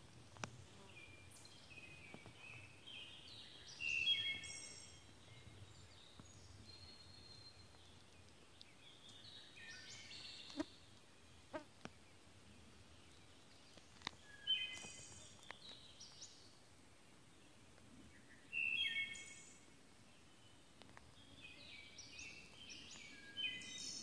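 A songbird singing short phrases of quick, high notes, one phrase every four or five seconds, with a few sharp clicks in between.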